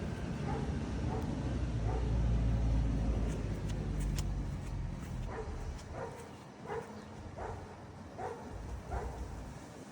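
A low rumble, then a small animal giving short high cries over and over, about three every two seconds, from about five seconds in.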